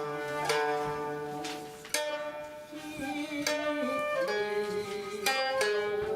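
Koto playing a traditional Japanese piece: a string of plucked notes, each ringing on, with some long held tones underneath.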